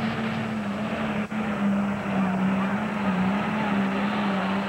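Heavy super stock diesel pulling tractor's turbocharged engine running hard at high revs under load as it pulls the sled, one steady drone that wavers slightly in pitch.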